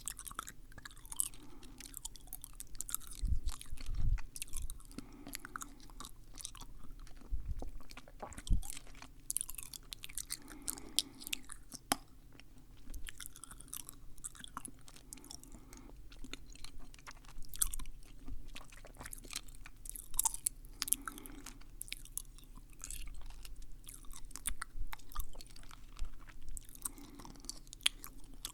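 Close-miked mouth sounds: irregular wet clicks and smacks of lips and tongue, like chewing.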